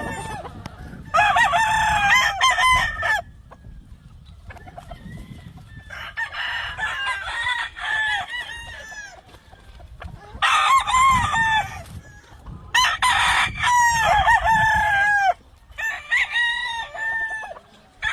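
Several gamefowl roosters crowing, their calls overlapping, in bursts of one to three seconds separated by short lulls.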